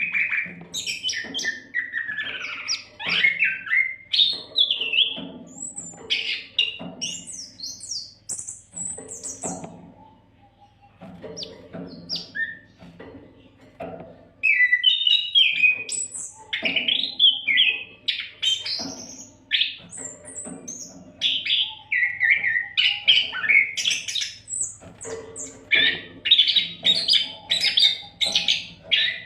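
Oriental magpie-robin (kacer) singing a dense, varied song of quick chirps, whistles and trills, with a lull of a few seconds about a third of the way through. A faint steady hum runs underneath.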